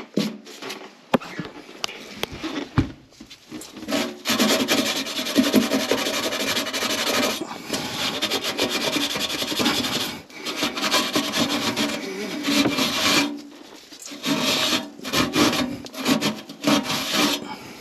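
Rough rasping strokes of a hand tool working against a hard material, in long stretches broken by short pauses.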